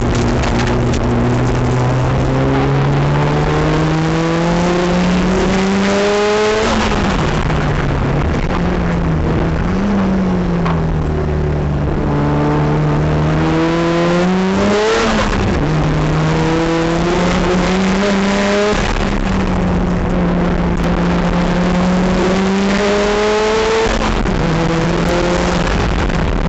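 Mazda RX-7 race car's rotary engine at full throttle on track, its pitch climbing steadily through each gear and dropping sharply at gear changes about 6.5 and 15 seconds in and again near the end, with wind and road noise underneath.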